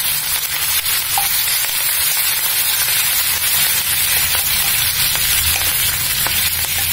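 Fresh green chillies and curry leaves sizzling in hot oil in a steel kadai during a tempering, with a metal spoon stirring them and clicking against the pan now and then.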